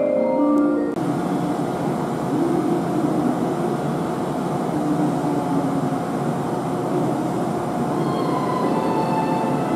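A chime melody on a station platform breaks off abruptly about a second in. It is followed by the steady rumble and running noise of a limited-express electric train (681/683 series) coming slowly into the platform, with a faint steady whine.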